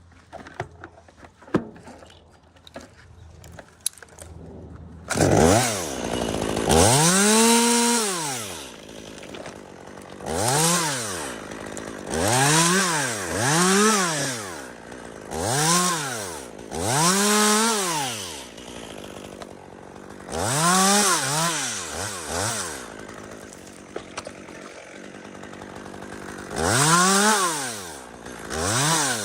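Chainsaw revved up and let back down to idle again and again, about a dozen times, each rev a second or two long. Faint clicks and knocks come before the first rev, about five seconds in.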